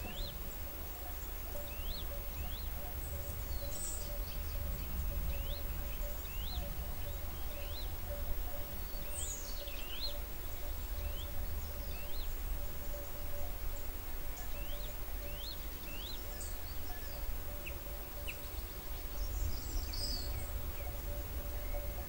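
Outdoor ambience of a small bird giving short rising chirps, repeated every half second to a second with a few higher calls among them, over a low rumble and a faint steady hum.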